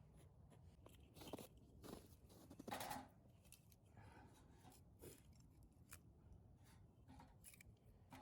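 Faint, irregular crackles and crunches of dry campfire wood, busier in the first three seconds and then thinning to scattered single ticks.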